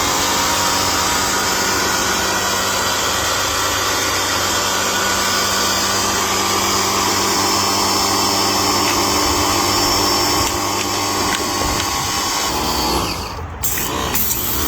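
Paxcess 2300 PSI electric pressure washer running: the motor and pump hold a steady whine over the hiss of the spray, then cut out about thirteen seconds in.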